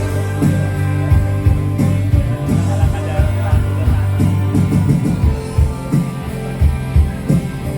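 Live band playing music during a sound check: sustained low bass notes under a steady drum beat.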